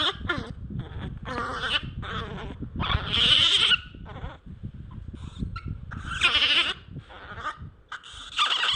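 Baby monkey crying for its mother: a string of high, wavering cries, some short and some drawn out, the longest about three seconds in, over a low rumble.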